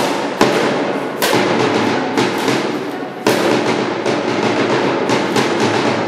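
Drum beaten loudly and unevenly with wooden sticks: a dense clatter of strikes, with a few heavier hits standing out, the first about half a second in and another past three seconds.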